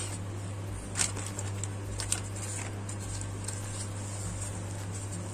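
A person chewing a mouthful of saucy beef burger, with scattered wet mouth clicks and smacks, the sharpest about a second in and again around two seconds in, over a steady low hum.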